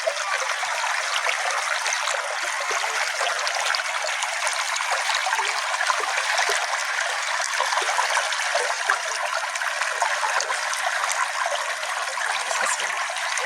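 Small stream flowing steadily: an even rushing babble dotted with many small splashes and gurgles.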